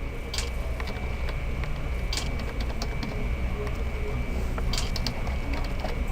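Scattered keystroke clicks from typing on a computer keyboard set to make typewriter sounds, quiet over a steady low hum.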